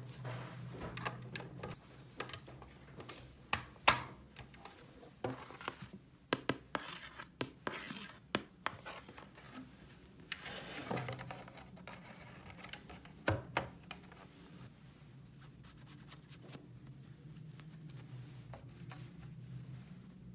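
Small plastic toy pieces being handled: a run of sharp clicks and taps with scraping and a brief rustle, the loudest click about four seconds in. The handling thins out to a few ticks after about fourteen seconds, over a steady low hum.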